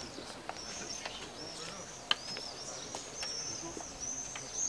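Birds calling overhead with many short, high chirps, one after another. A single sharp click comes about two seconds in.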